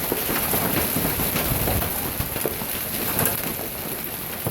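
Heavy hailstorm: hailstones and rain pelting surfaces in a dense, steady patter of many small impacts.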